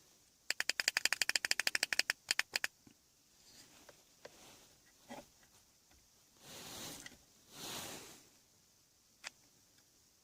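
A quick run of about twenty clicks over two seconds: a CB radio's channel selector being stepped down from channel 20 to channel 1. After it come a few faint taps and soft rustles.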